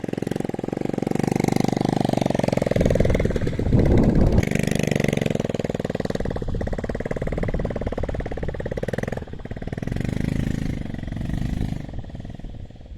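An engine running with a fast, even pulsing, its speed rising and falling several times, loudest a few seconds in and easing off near the end.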